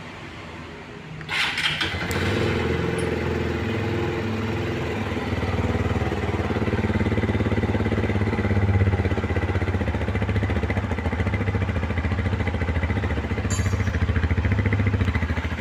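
Rusi Flash 150fi fuel-injected motorcycle engine started about a second in, catching at once and then idling steadily on its newly replaced crankshaft position sensor.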